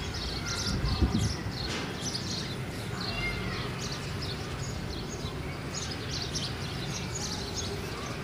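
Birds chirping in the background, many short high calls scattered throughout over a steady low hum, with a low thump about a second in.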